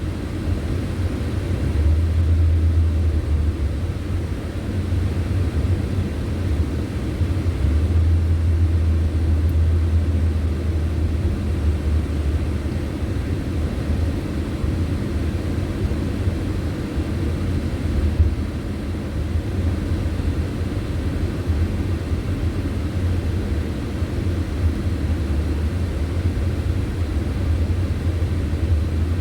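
Steady low rumble of a car being driven: engine and road noise. There is one brief knock about eighteen seconds in.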